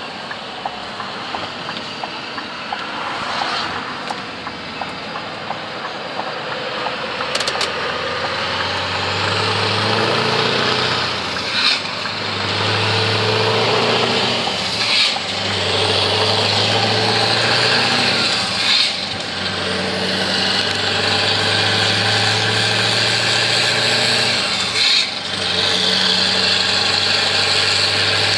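Scania R500 V8 diesel truck with an open exhaust pipe, running quietly at first and then pulling away under load with a deep, steady exhaust note. The note breaks off briefly about four times, with short hisses, as it shifts gear.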